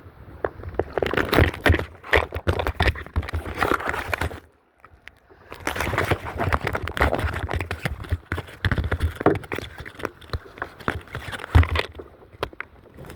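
Irregular scraping and knocking with water sloshing, from a kayak and paddle close to the microphone. The sound drops out to silence for about a second, a few seconds in.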